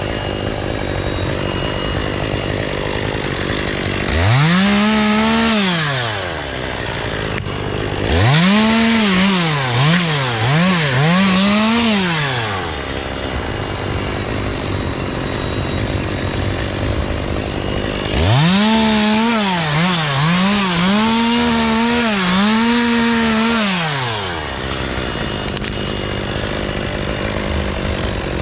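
Two-stroke chainsaw cutting Canary Island date palm fronds. It revs up three times, a short burst then two longer ones, and the throttle dips several times within each, over a steady background engine drone.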